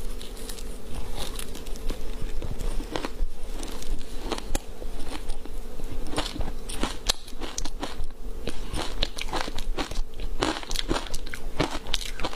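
Close-up biting and chewing of frozen matcha green tea ice: a dense, irregular run of sharp crunches and crackles as the ice breaks between the teeth.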